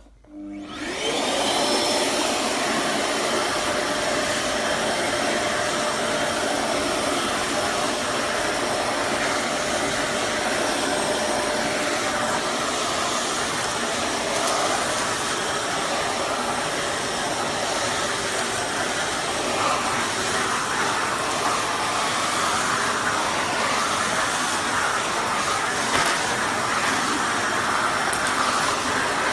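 Kärcher WD 6 P S 1300 W wet-and-dry vacuum cleaner switching on, its motor spinning up in about a second, then running steadily at full suction.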